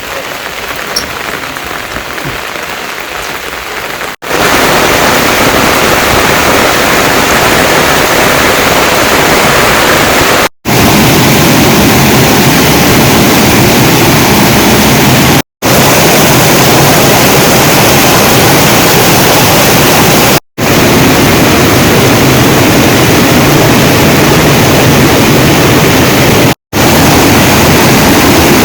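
Heavy rain pouring, a steady dense hiss. It is softer for the first few seconds and then much louder, with brief dropouts where the clips are cut together.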